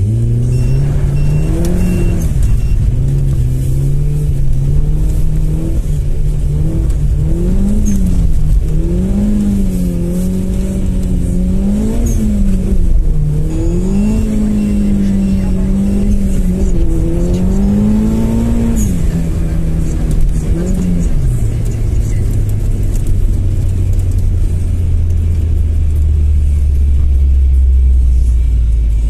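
Lancer Evolution IV's turbocharged four-cylinder engine heard from inside the car, its revs rising and falling again and again as the wheels slip on fresh snow. About two-thirds of the way through it settles to a lower, steady note.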